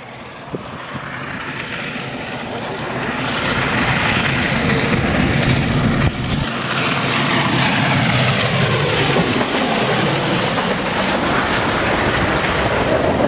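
Union Pacific Big Boy 4014 steam locomotive approaching and passing close at speed: the sound builds over the first few seconds and then stays loud, with a pitch that falls steeply about halfway through as it goes by.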